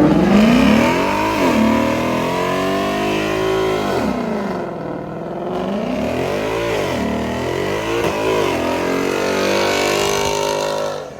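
Car engine revved hard again and again, its pitch climbing and falling several times, with a deep drop about four seconds in; the sound cuts off abruptly near the end.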